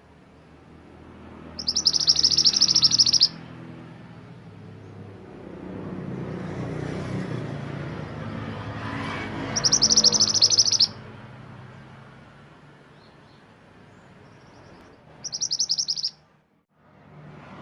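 Mantenan gunung songbird giving three loud, fast chattering trills: the first near the start and lasting about a second and a half, the second about ten seconds in, and a shorter one near the end. A low steady rumble continues in the background.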